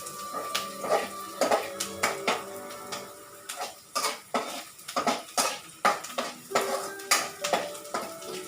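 Metal utensil knocking and scraping against a cooking pan while stirring food, an irregular run of clanks about two or three a second, some ringing briefly.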